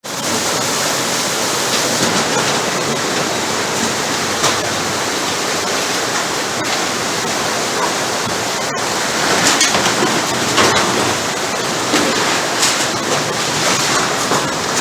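Loud, steady rush of fast-flowing floodwater, with choppier splashing surges from about nine seconds in.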